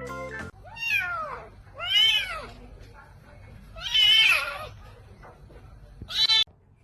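A cat meowing three times, each call rising and then falling in pitch, followed by a short fourth call near the end that cuts off abruptly.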